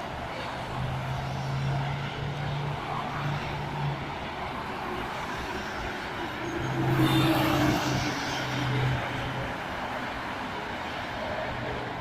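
Slow-moving motorway traffic with the low drone of lorry diesel engines over steady tyre noise. One vehicle passes close about seven seconds in, the loudest moment.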